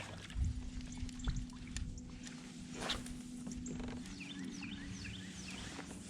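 Small splashes and knocks at the water as a bass is released from a kayak, over a steady low hum, with a quick run of short bird chirps about four seconds in.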